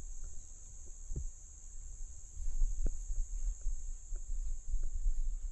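Insects, crickets, chirring steadily at a high pitch, over a low rumble and a few faint ticks.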